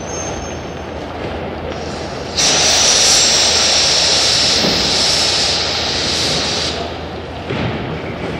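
Railway station ambience with a steady background hum, broken about two seconds in by a sudden loud hiss of air from a train that lasts about four seconds before dying away.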